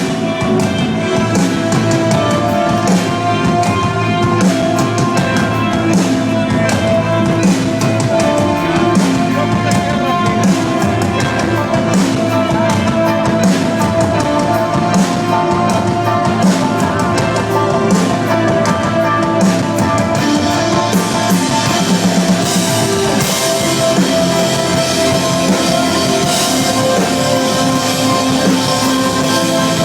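Live instrumental post-rock band playing: drum kit and electric guitars over sustained, ringing guitar notes. The cymbals build up and grow louder about two-thirds of the way through.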